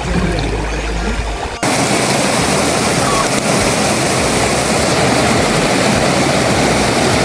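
Rushing water, a steady full-range rush like a waterfall or fast stream, which comes in abruptly at full level about one and a half seconds in. Before that, quieter trickling water with a low hum.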